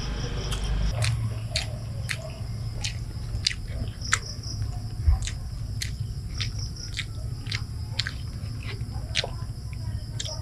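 Close-up chewing and mouth smacking while eating balut (boiled duck egg) with chili garlic sauce, with a sharp wet click every half second or so.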